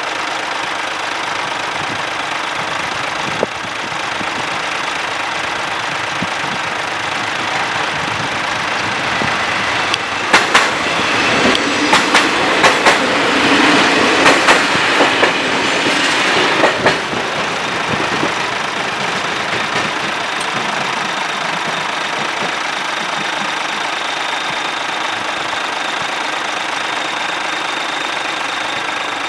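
A lorry's diesel engine idles steadily close by while a diesel passenger train passes over the level crossing for about seven seconds in the middle, its wheels clacking over the rail joints in a quick run of sharp beats.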